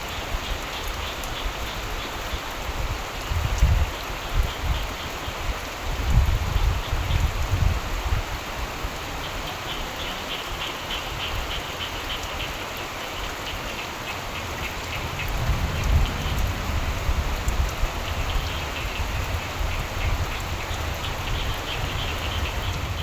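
Steady rain falling, with frogs croaking in runs of quick pulses three times and irregular low rumbles coming and going underneath.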